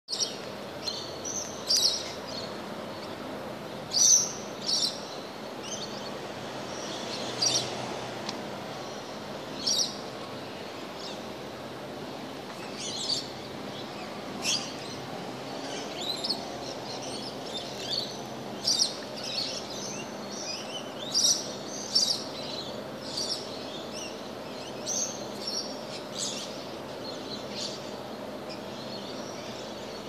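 Birds chirping in short calls every second or two, over a steady low background hum.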